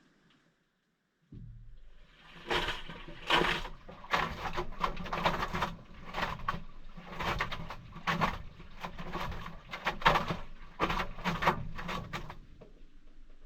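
Maytag washing machine's motor starting with a low hum, then water churning and sloshing in irregular surges for about ten seconds before it stops near the end.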